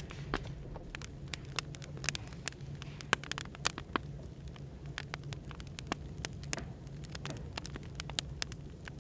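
Firewood burning, crackling with irregular sharp pops several times a second over a steady low hum of background noise.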